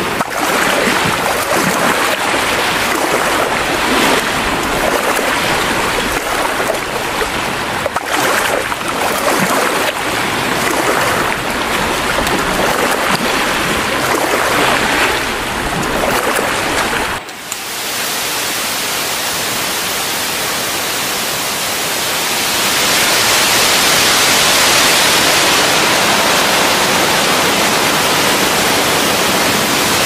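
Small waves washing in and drawing back on a pebbly beach, surging and easing every few seconds. About 17 s in the sound cuts suddenly to a steady, even hiss with little bass, which grows louder a few seconds later.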